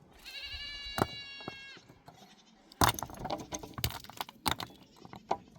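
A high, wavering bleat from a herd animal, about a second and a half long, followed from about three seconds in by a run of sharp clicks and clattering knocks.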